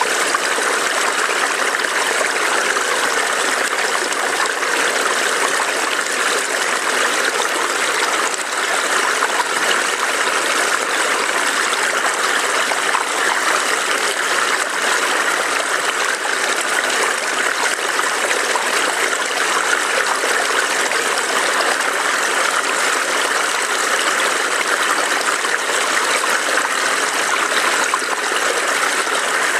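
A small stream burbling and trickling steadily over stones, an even rushing noise with no breaks.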